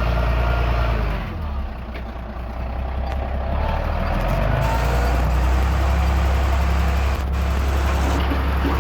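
Heavy earthmoving machine's diesel engine running steadily with a deep low hum, easing off slightly between about one and three seconds in.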